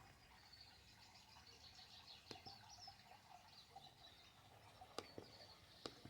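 Near silence, with faint bird chirping in the background and a few soft clicks.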